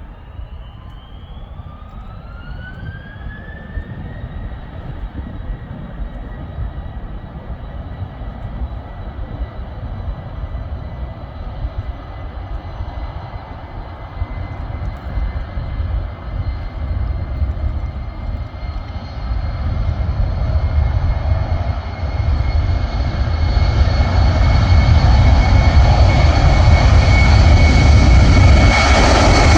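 Airliner turbine engines spooling up. A whine rises in pitch over the first few seconds, then holds steady over a deep rumble that grows louder throughout, as at the start of a takeoff run.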